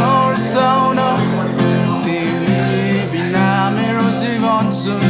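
Acoustic guitar strummed steadily under a sung, wordless vocal melody that wavers and bends in pitch, leading into a Nepali song.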